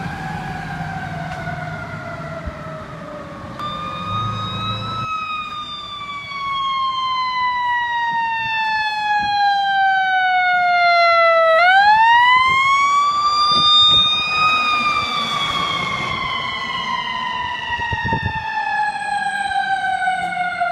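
Fire truck siren wailing. The pitch falls slowly over several seconds, sweeps quickly back up about 12 seconds in, then falls slowly again, with a low engine rumble under it in the first few seconds.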